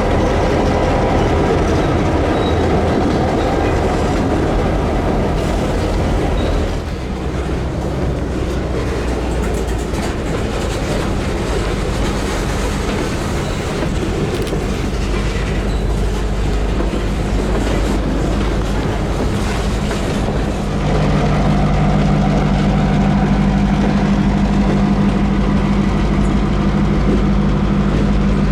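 Slow-moving freight train: EMD diesel locomotive engines running while rail cars roll and rattle over the track. About three-quarters of the way through, the engine drone grows louder with a strong low hum.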